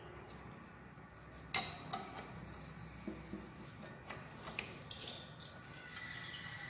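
Metal tools and engine parts clinking and tapping during hand assembly of a single-cylinder diesel engine's cylinder head: a sharp clink about a second and a half in is the loudest, followed by lighter scattered clicks.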